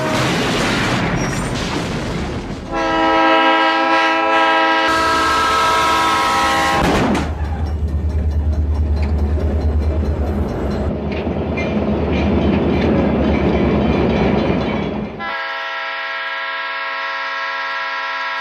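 Locomotive air horn sounding a long multi-note chord, then the low rumble and regular clatter of the train going by, then the horn sounding again near the end.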